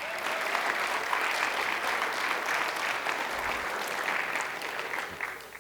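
Audience applauding. It starts suddenly, holds steady, and dies away over the last second.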